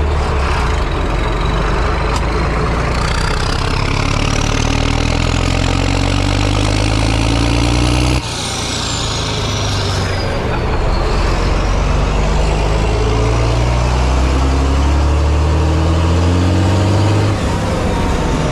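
Large farm engine under load, its pitch climbing steadily, then dropping suddenly about eight seconds in before climbing again, with a faint high whine sliding up and down above it.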